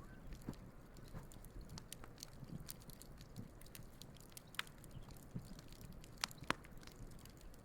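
Wood campfire burning quietly, with scattered small crackles and a few sharper pops, the loudest two close together near the end.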